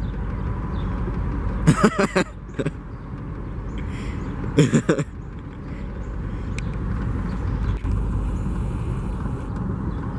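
Steady low outdoor rumble, with two short voice sounds about two and five seconds in.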